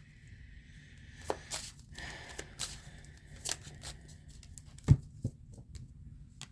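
Tarot cards being handled: a scatter of light clicks and card snaps, with one duller knock about five seconds in.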